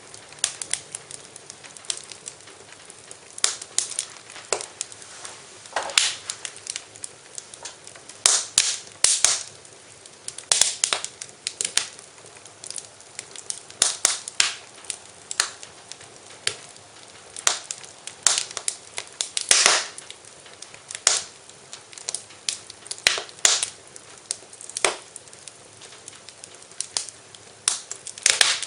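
Wood fire in a fireplace crackling, with frequent irregular sharp pops over a faint steady hiss.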